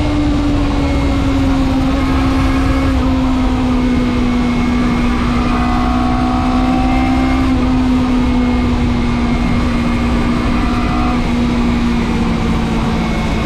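Motorcycle engine running at a steady cruising speed, its note easing slowly lower. Underneath is a low wind and road rumble, damped but not removed by a foam cover over the action camera.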